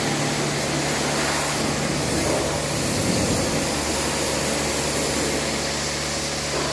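Steady machinery hum and hiss with a constant low tone, without clear starts or stops.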